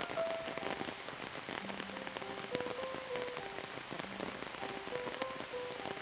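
Steady rain falling, a continuous hiss with many distinct drops striking close by. A soft, slow melody of single held notes plays underneath.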